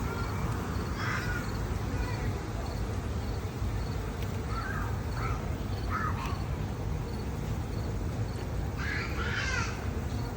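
Several short animal calls, the longest near the end, over a steady low rumble.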